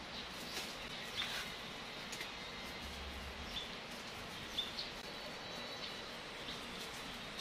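Small birds chirping in short calls every second or so over a steady outdoor background hiss, with a faint thin high tone joining about halfway through.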